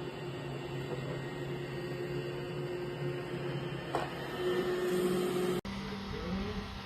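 A steady machine hum, a low drone with a higher steady tone over it. It cuts off abruptly about five and a half seconds in and gives way to a different low hum.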